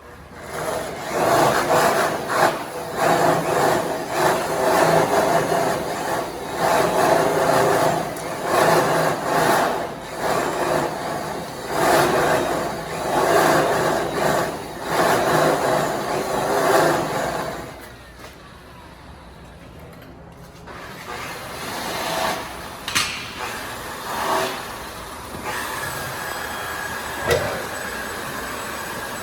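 Electric rotary buffer with a soft cloth polishing pad scrubbing against an aluminum truck wheel, the rubbing swelling and easing every second or two as the buff works around the wheel face. About 18 seconds in it eases off to quieter, steadier running, with a faint steady whine near the end.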